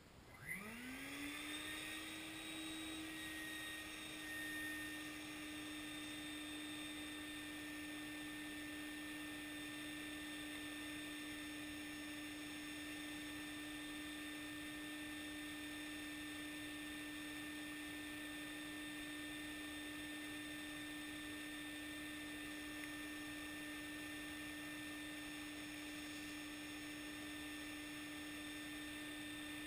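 Stinger wet vac motor switching on and spinning up within about a second to a steady whine, then running at constant speed.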